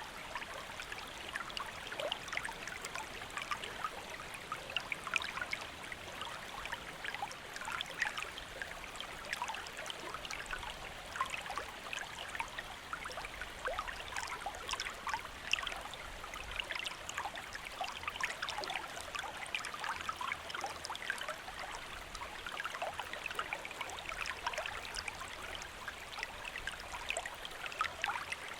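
A shallow stream flowing steadily, with many small splashes and trickles over the water's surface.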